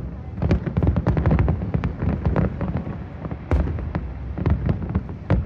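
Fireworks display: a dense barrage of shells bursting, several sharp bangs a second over continuous low booming.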